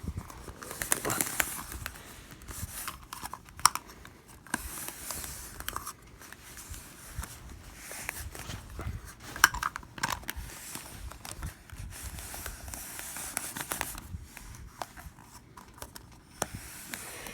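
Cups being shuffled around on a surface: scraping and rubbing with occasional sharp knocks as they are set down.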